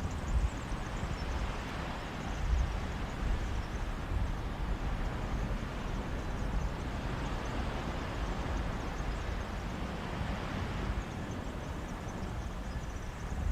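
Sea waves washing onto a beach in a steady hiss of surf that swells and eases, the broadest swell lasting several seconds near the middle. Wind buffets the microphone in low gusty rumbles.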